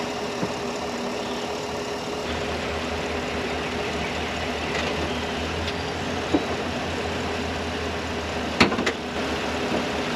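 Vehicle engine idling steadily, with a deeper low rumble that comes in about two seconds in. Two sharp clicks sound near the end.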